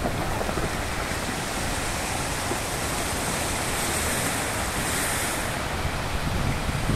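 Steady rush of sea surf breaking on the shore, mixed with wind.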